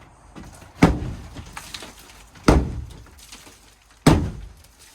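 Three heavy blows about a second and a half apart, striking an old shed's wall panel to knock it loose, each impact followed by a short rattling decay.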